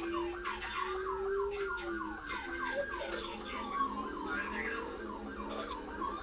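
Police cruiser siren in a rapid yelp, about four to five quick falling sweeps a second, with a slower rising and falling tone beneath it.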